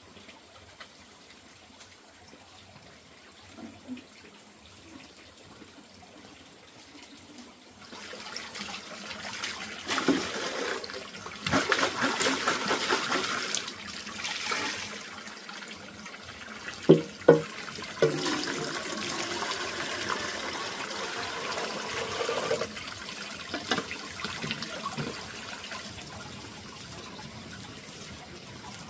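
Water running and splashing, faint at first and louder from about eight seconds in, with a few sharp knocks past the middle.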